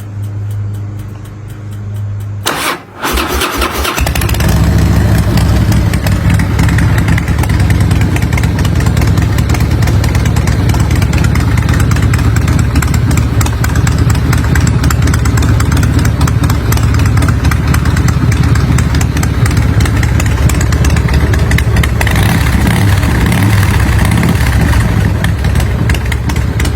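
Harley-Davidson Softail Deuce CVO's V-twin, fitted with a Vance & Hines exhaust, starting a few seconds in, then running steadily at idle. A steady low hum comes before the start.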